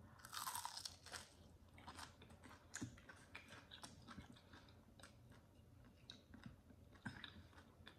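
Faint close-miked eating: a bite into a fried chicken wing about half a second in, then chewing with many small wet clicks.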